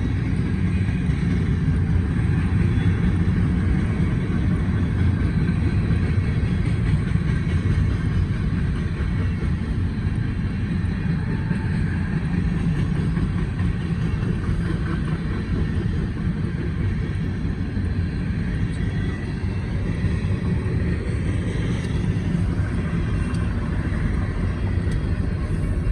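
Union Pacific grain train rolling past, its wheels running on the rails in a steady low rumble.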